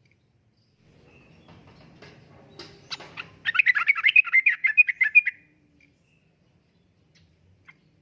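Yellow-vented bulbul (trucukan) singing: after a few faint notes, a loud, rapid bubbly phrase of chattering notes about two seconds long, with a couple of faint single chirps near the end.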